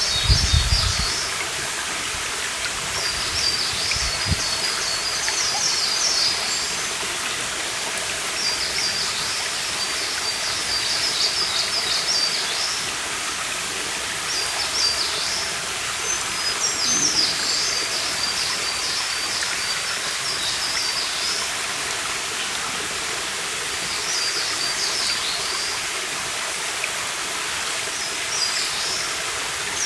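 A stream running steadily, with a songbird singing short twittering phrases every few seconds over it. A few low thumps in the first second and once more about four seconds in.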